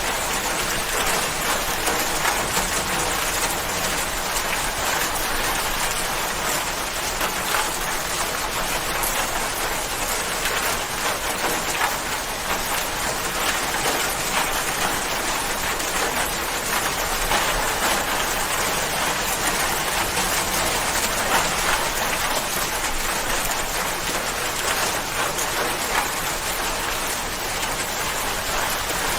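Steady heavy rain, a dense even hiss of drops with small irregular patters on a surface.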